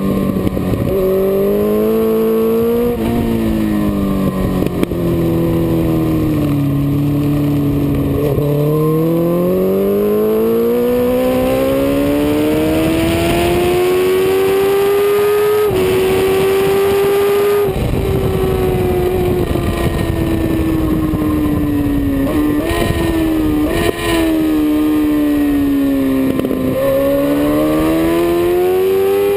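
Suzuki GSX-R1000's inline-four engine at speed on track, fully loaded and dyno-tuned, with wind rushing past. The revs ease off early on, then climb steadily for several seconds under hard acceleration, hold, fall away gradually as the bike slows for a corner, and climb again near the end.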